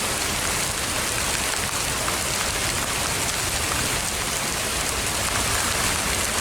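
Heavy rain coming down steadily, a dense even hiss of rain on hard surfaces.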